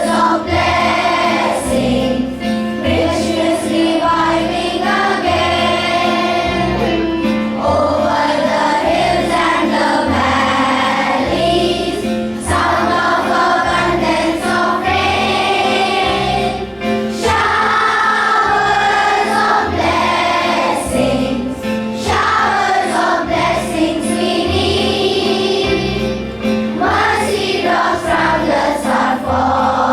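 A group of children singing a morning prayer song in chorus over instrumental accompaniment, phrase after phrase with short breaths between.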